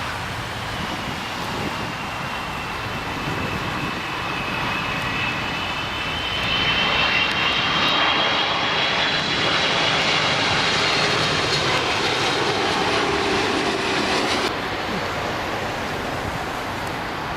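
Airbus A330 airliner's jet engines on landing approach: a steady rushing noise with a high whine, which grows louder about six seconds in and cuts off abruptly near the end.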